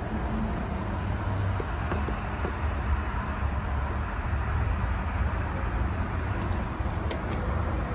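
2005 Cadillac Escalade's 6.0-litre LS V8 idling steadily after a new water pump: no pulley wobble or other abnormal noise.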